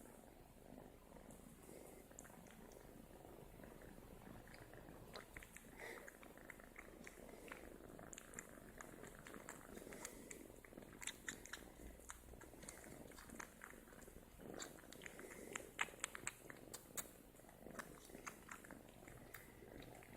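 Domestic cat purring close to the microphone, a steady low rumble, with scattered faint clicks and crackles that grow busier in the second half.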